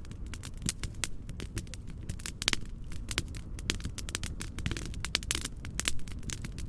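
Wood fire crackling: irregular sharp pops and snaps, several a second, over a steady low noise bed.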